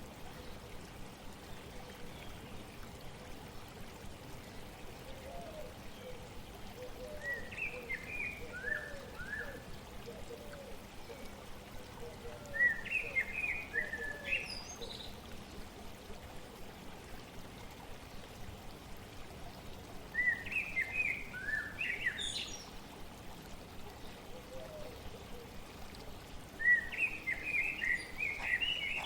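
Steady flowing stream water, with a songbird singing four short phrases of quick chirping notes, some ending in a rising sweep, spaced roughly every six seconds.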